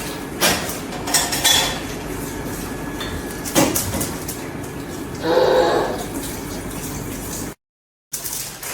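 Kitchen utensils and dishes clinking and clattering in several separate knocks and scrapes, over a steady background hum. The sound cuts out completely for about half a second near the end.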